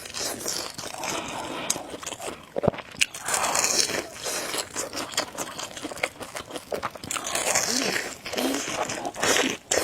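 Close-miked eating sounds: a person biting and chewing food, with irregular crunches and sharp clicks.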